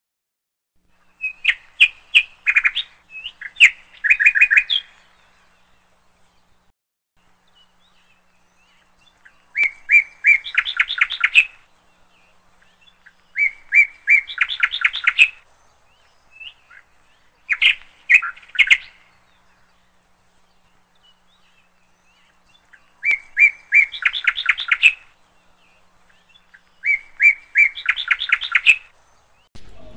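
A songbird singing short phrases, each a few clear notes followed by a quick run of notes, repeated every few seconds.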